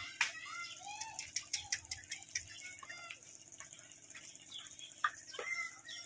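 Small birds chirping in short, quick calls over a steady high hiss, with a few sharp clicks.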